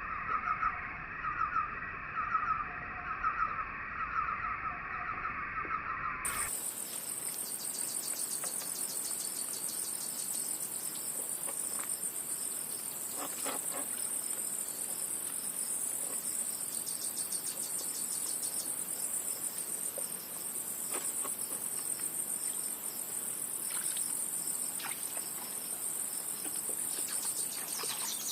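Outdoor insect chorus. For the first six seconds a lower, pulsing chirping is heard; it then cuts off abruptly and a high, rapidly pulsing insect trill runs steadily.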